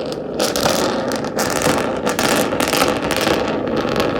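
Car engine running, with irregular crackling and rattling noise over it.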